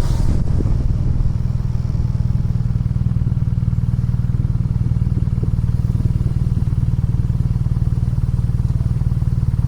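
BMW R nineT's air/oil-cooled boxer twin idling steadily through an HP Corse GP-07 slip-on exhaust. It makes a low, even, rapid pulse.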